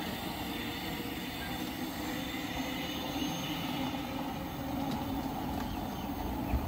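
Train running on the line, a steady low rumble of wheels and motors, with a short knock near the end.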